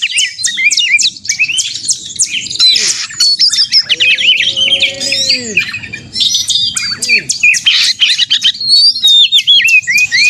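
Oriental magpie-robins (kacer) singing a fast, agitated fighting song: a dense stream of rapid chirps and sweeping whistles, with a few lower drawn-out notes about four seconds in.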